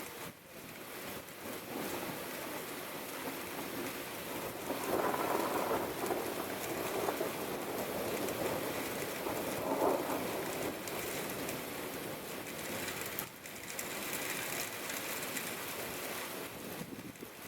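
Steady rain falling, an even hiss that swells louder for a few seconds in the middle.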